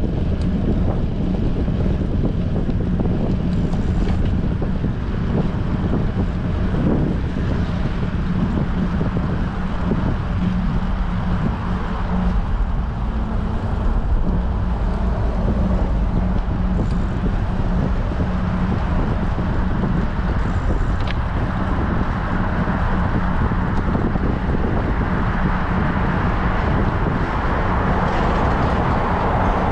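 Strong wind buffeting an action camera's microphone on a moving bicycle: a loud, steady rumbling rush that barely changes over the whole stretch.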